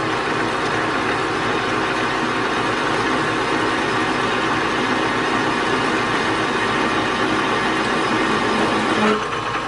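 Metal lathe turning at reduced speed with a chamfering tool cutting into the workpiece: a steady, noisy cut with the tool beginning to chatter.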